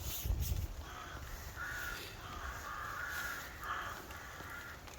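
Crows cawing, a run of harsh calls one after another over several seconds, after a brief low rustle or knock at the start.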